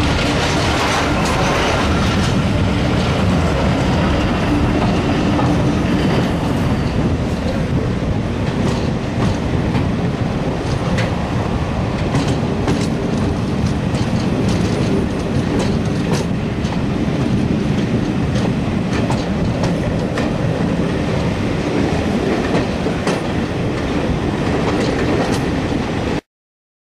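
A moving passenger train heard from an open carriage window: steady running noise, with the wheels clicking over rail joints. It is louder in the first couple of seconds while a line of coaches on the next track goes by, and it cuts off suddenly near the end.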